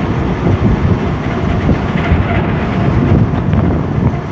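Class 485 S-Bahn electric multiple unit running at speed, heard from on board: a loud, steady low rumble of the train moving along the track.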